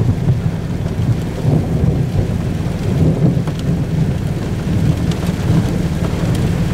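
Thunderstorm sound: a continuous low rumble of thunder over steady rain.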